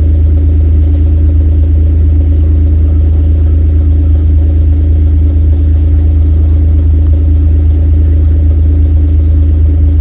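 Steady low drone of an idling engine, unchanging throughout.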